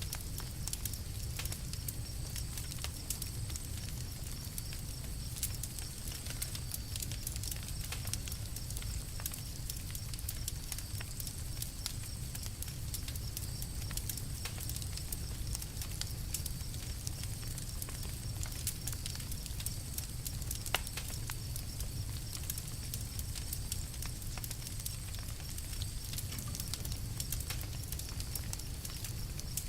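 Campfire crackling: many irregular sharp pops and snaps, one louder snap about two-thirds of the way through, over a steady low rumble.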